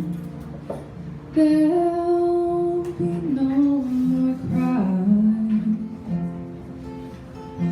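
A woman singing long held notes over a plucked acoustic guitar.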